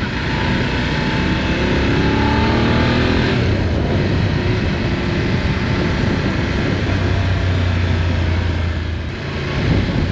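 Motorcycle riding on the road: the engine's pitch climbs as it accelerates over the first few seconds, then a loud rush of wind noise with a steady low engine drone underneath.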